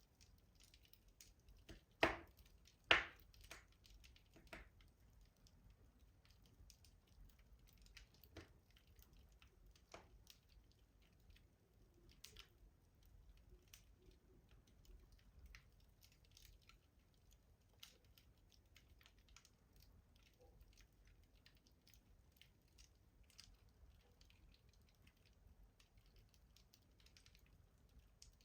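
Wood fire crackling in a traditional rustic stove: faint, scattered ticks and small pops, with two louder pops about two and three seconds in.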